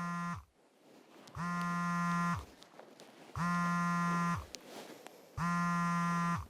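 Telephone ringing with a buzzy tone, in rings about a second long and a second apart: the end of one ring, then three more. An incoming call.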